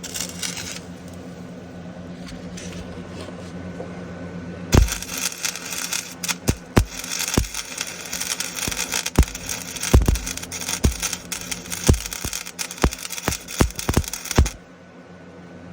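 MIG welding arc crackling and popping as a bead is run on exhaust pipe. It starts a few seconds in, lasts about ten seconds and cuts off suddenly, after a brief burst at the very start. A steady low hum sounds under it and in the gaps.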